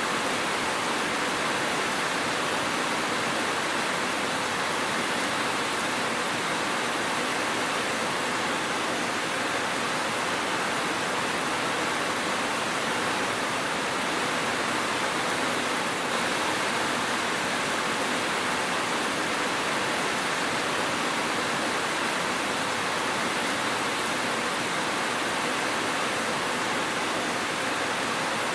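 Steady rain, a continuous, even hiss with no breaks or thunder.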